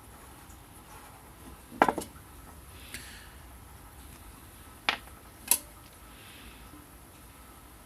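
Small metal parts clinking and knocking as they are handled and set down: a double clank about two seconds in, then two sharper clinks around five seconds.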